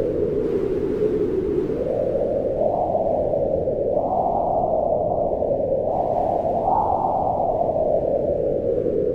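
Howling wind: a steady low rush with a moaning pitch that slowly rises and falls, swelling twice in gusts.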